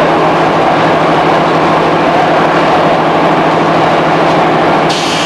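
JR East 211 series electric multiple unit running at a steady speed, heard from inside a motor car: a constant rumble of wheels on rail with a steady drone from the traction motors, and the pitch holds level throughout.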